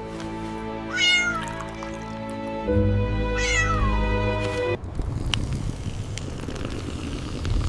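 Two cat meows over background music, the first about a second in and a longer one rising then falling around three to four seconds in. The music stops near five seconds and a rough noise carries on after it.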